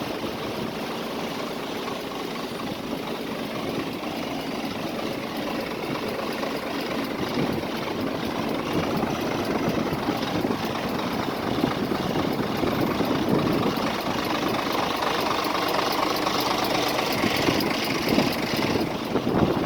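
Scania R450 truck's 13-litre six-cylinder diesel engine running at idle, growing somewhat louder in the second half.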